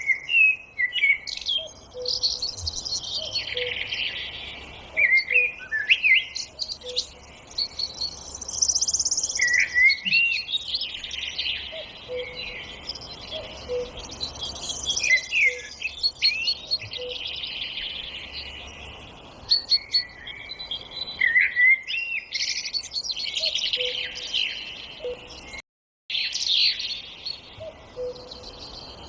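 Several songbirds singing at once, a dense overlapping chorus of chirps, whistles and trills. A soft low call repeats in the background, and the sound briefly cuts out to silence a little before the end.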